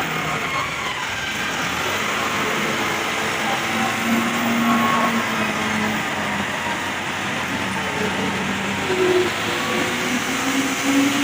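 A vehicle running steadily: a constant even noise with faint pitched tones drifting underneath.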